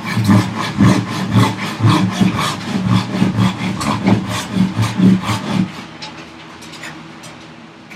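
Hand sawing with a Japanese pull saw, its crosscut teeth cutting across the grain of a thick wooden block. The rasping strokes come about twice a second and stop a little under six seconds in.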